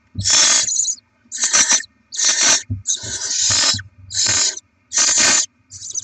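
Barn owl owlets making their rasping, hissing begging calls: about six hisses, each roughly half a second long, at a little over one per second, as the chicks beg for food.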